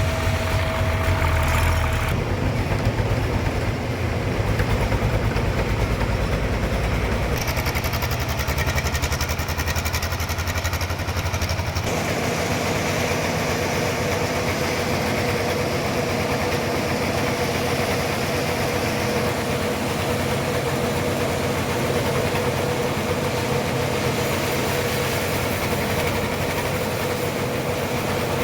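Sawmill machinery running steadily while sawing a trembesi log into planks. Its sound shifts a few times and settles about twelve seconds in into a steady run with a constant whine.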